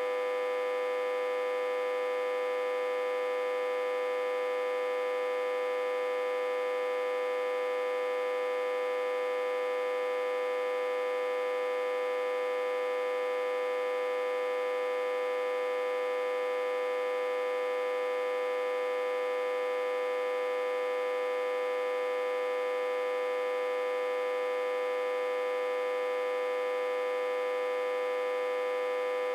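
Autotransformer humming steadily, reverse-connected to a step-down transformer and fed about 60 to 80 V. It is one strong unchanging tone with many fainter overtones above it.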